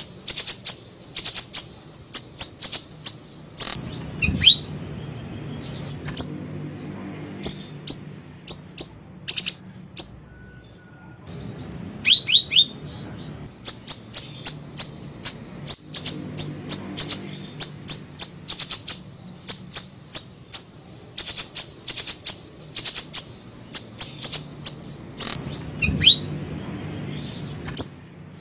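Small siri-siri bird calling in rapid runs of sharp, very high-pitched chirps, broken by short pauses and a few lower down-slurred notes.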